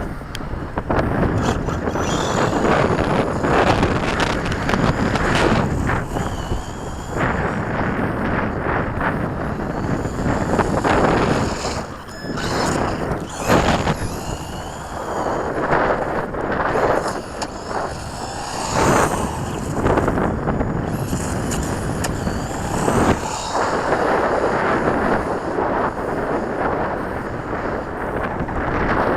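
Wind buffeting the microphone, with an HPI E-Firestorm 10T Flux brushless electric RC stadium truck running hard, its motor whine rising and falling as it speeds up, slows and passes repeatedly.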